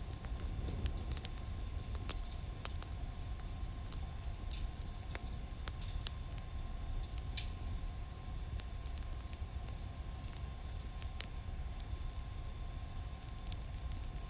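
Firewood fire crackling: irregular sharp pops and snaps over a low steady rumble, with a faint steady hum underneath.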